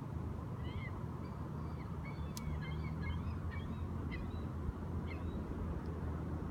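A flurry of short, high-pitched calls from shore birds, over a steady low rumble. A single sharp click comes about two and a half seconds in.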